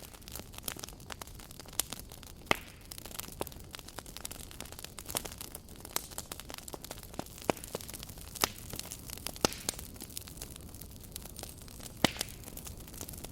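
Wood campfire crackling and popping: irregular sharp pops over a low steady hiss, with two louder snaps, one about two and a half seconds in and one near the end.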